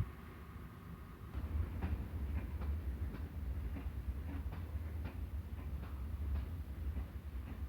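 Passenger train running past, its wheels clicking over rail joints at uneven intervals above a steady low rumble.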